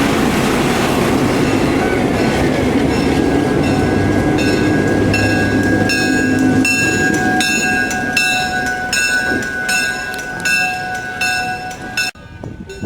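Train passing on the rails: a loud rumble, then rhythmic clicking of wheels over rail joints about twice a second with a steady high tone alongside. It cuts off abruptly near the end.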